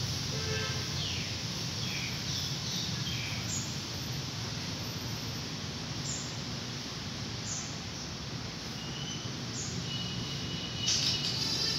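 Steady background noise with faint, short bird chirps scattered throughout and a brief high note near the end.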